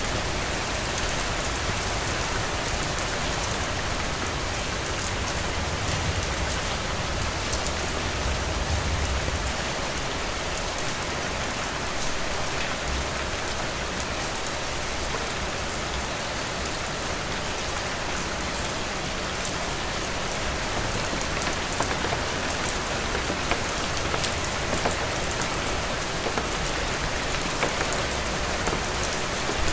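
Heavy rain falling steadily, a dense even hiss with the close patter of individual drops on a roof, with a low rumble that swells for a few seconds near the start.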